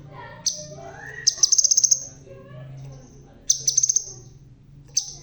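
Crimson sunbird singing: sharp, high chips and two fast, trilled runs of rapid notes, about a second in and again past the middle.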